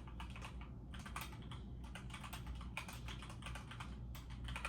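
Typing on a computer keyboard: irregular, quick key clicks over a low steady hum.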